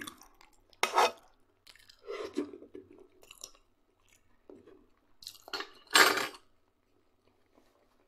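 A man chewing fried potatoes with loud close-up eating sounds, and a spoon scraping the frying pan as he scoops more, loudest about one second in and again about six seconds in.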